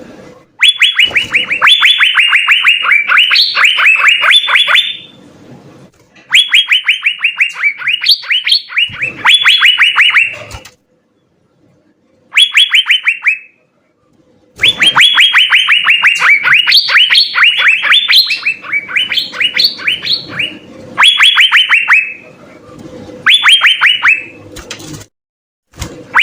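Asian fairy-bluebird (cucak biru) singing vigorously: fast runs of short, falling whistled notes, in bursts of a few seconds broken off by abrupt gaps.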